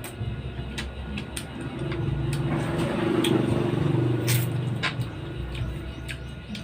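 A motor vehicle passing: a low engine hum swells and fades over about three seconds, with scattered light clicks.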